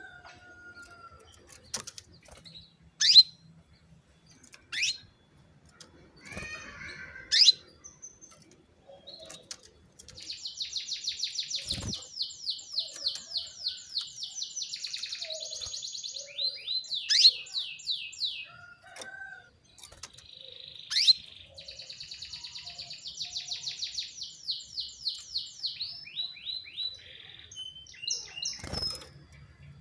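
Female canary calling: several sharp rising chirps, then two long trills of rapid repeated notes, each ending in a few slower falling notes. A low thump comes about twelve seconds in and a short rustle near the end.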